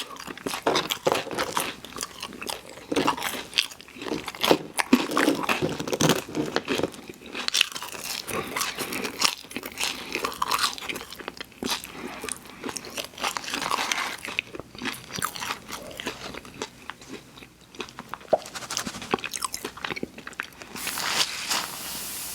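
Close-miked eating of crunchy fast food: irregular sharp crunches from biting, mixed with wet chewing. Near the end a steady hiss lasts about a second and a half.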